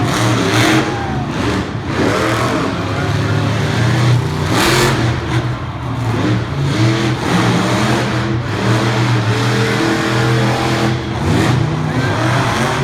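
Monster truck engines revving hard during a side-by-side race, their pitch rising and falling with the throttle.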